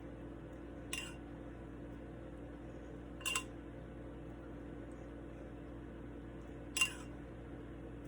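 Three short clinks of a kitchen utensil against cookware, about a second in, after about three seconds and near the end, the last one loudest, over a steady low hum.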